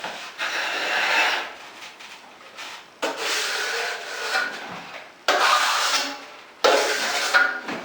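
Drywall trowel scraping through joint compound in four strokes of about a second each, each starting abruptly.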